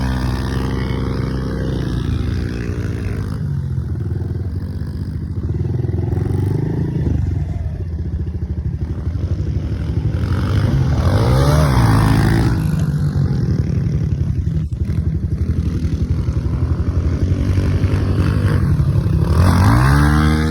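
Honda CRF110 pit bike's small single-cylinder four-stroke engine being ridden, revs rising and falling through the gears, with climbs about eleven seconds in and again near the end.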